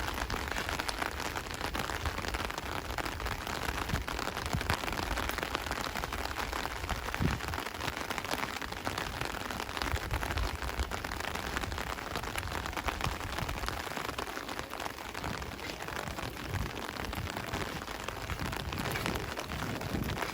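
Steady rain falling, with many small drop impacts close by and an uneven low rumble underneath.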